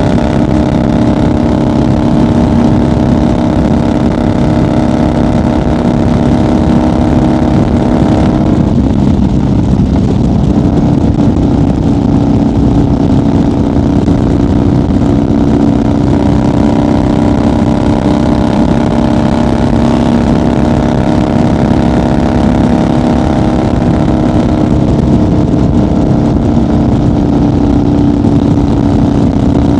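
1990 Harley-Davidson FXR's Evolution V-twin engine running steadily at highway cruising speed. Its even note breaks up for a couple of seconds about a third of the way in, then settles back at the same pitch.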